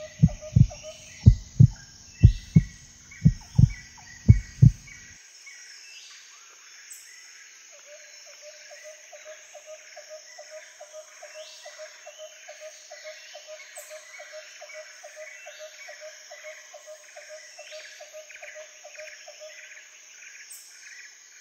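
Nature soundscape of repeated chirping animal calls over a steady high drone, with a fast pulsing call from about eight seconds on. For the first five seconds deep heartbeat-like thumps come about twice a second.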